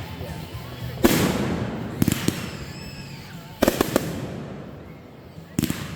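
Fireworks going off in a series of sharp bangs, each trailing off with a rumble. There is one about a second in, quick clusters of two or three around two and three and a half seconds, and another near the end.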